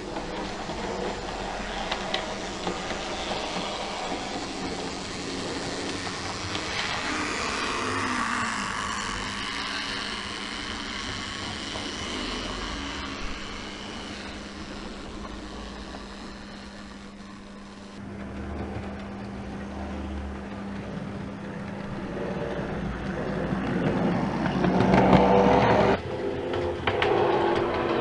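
A train running along the track, with a steady hum through the middle and louder rumbling near the end that cuts off abruptly.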